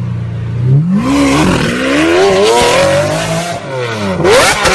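Sports car engine revving: the pitch climbs steadily for a couple of seconds, drops back, then is blipped up sharply near the end.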